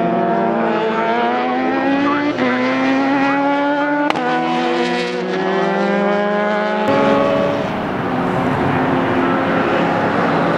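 Race car engines accelerating hard, the pitch rising steadily and dropping at upshifts about two and four seconds in. About seven seconds in, the sound changes abruptly to a noisier, more even engine note.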